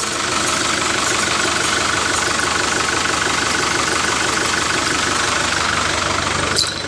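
Small electric motor of a homemade toy tractor running steadily with a fast, even rattle, changing just before the end.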